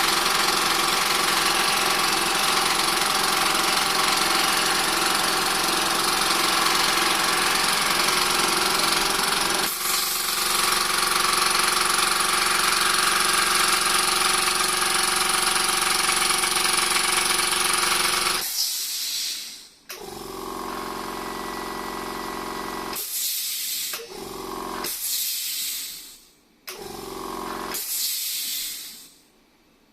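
Try-POWER 2 hp four-cylinder air compressor running loudly, a steady mechanical clatter with hiss. It cuts off about nineteen seconds in, then several shorter, quieter spells start and stop. The owner traces the noise to a misaligned connecting rod letting the piston rub and score the cylinder, leaving it short of compression.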